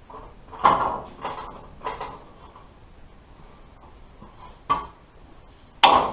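A few sharp metal clanks and knocks, five in all, the first and last loudest, as a bent length of steel conduit is handled and taken off a truck fender.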